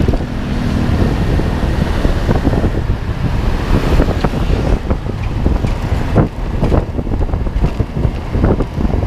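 Wind buffeting the microphone in irregular gusts over the steady rumble of a moving road vehicle.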